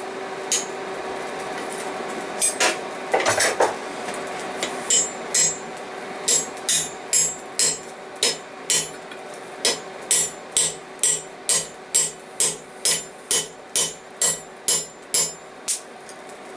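Hammer blows on a steel punch used as a drift, driving it into a freshly punched hole in hot bar stock to open it out round. A few scattered strikes at first, then steady, evenly spaced blows about two a second.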